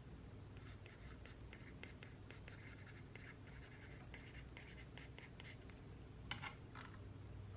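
Pen writing on paper: a run of quiet, quick scratching strokes, with a couple of louder strokes near the end.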